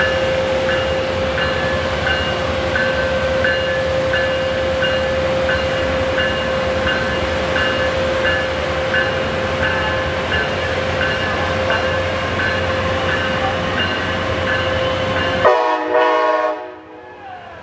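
Amtrak Pacific Surfliner passenger train rolling past with a steady rumble and a constant tone, while a bell rings repeatedly, a little more than once a second. Near the end the sound cuts off abruptly and drops away.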